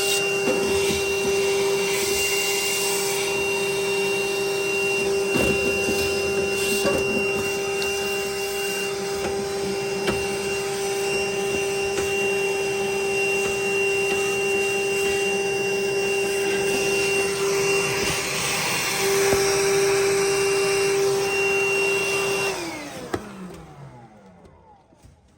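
Vacuum cleaner running steadily with a high motor whine while the furnace is cleaned out. It is switched off about 22 seconds in, and the motor winds down in falling pitch.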